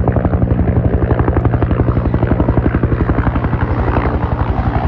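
Helicopter passing close overhead: the rotor blades beat in a rapid, even pulse over a steady low engine hum.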